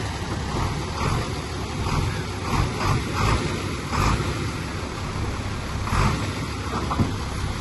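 Komatsu bulldozer's diesel engine running under load, with several short knocks and scrapes from the machine working soil.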